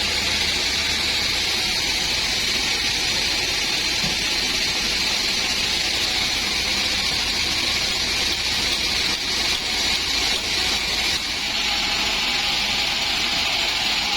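Sawmill bandsaw running and cutting a dry acacia log: a steady, loud, high rushing noise with a low machine hum underneath.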